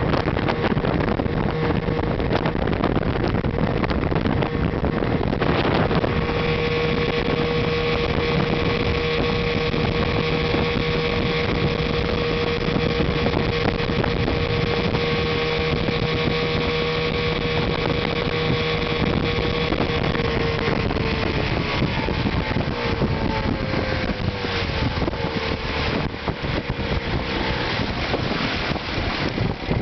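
1986 Force 9.9 hp Gamefisher two-stroke outboard motor running steadily under way. After about twenty seconds its pitch drops and wavers.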